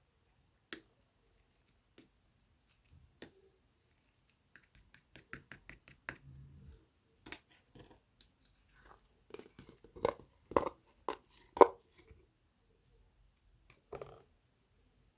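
Firm chocolate slime handled by hand, giving scattered clicks and sharp pops. A run of quick ticks comes about five seconds in, and the loudest pops about ten to twelve seconds in.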